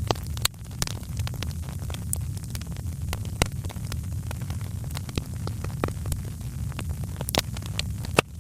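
Wood fire crackling in a fireplace: irregular sharp snaps and pops over a steady low rumble of burning, with a few louder pops scattered through.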